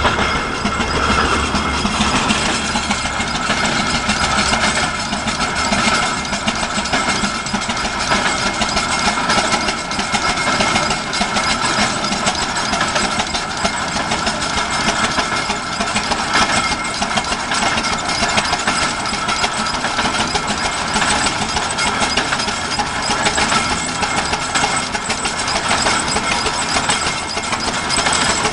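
1916 Avery 12-25 tractor's engine running steadily, with a rapid, even knocking beat.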